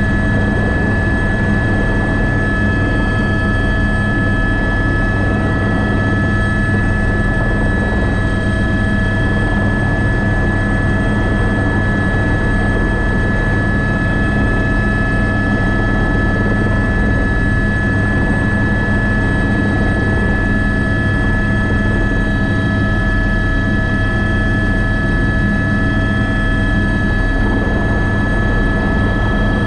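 Airbus AS350B3 (H125) helicopter running steadily: its single turboshaft engine's whine tones held at a constant pitch over the low, even drone of the main rotor.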